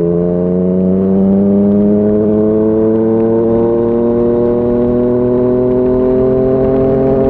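Yamaha MT-09's three-cylinder engine breathing through a Yoshimura R55 slip-on exhaust, accelerating steadily in one gear. Its note climbs slowly and evenly in pitch.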